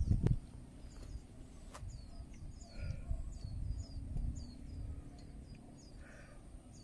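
Small birds chirping over and over, in short high notes, with a fainter call twice in between. A low rumble runs underneath and is louder for a moment at the very start.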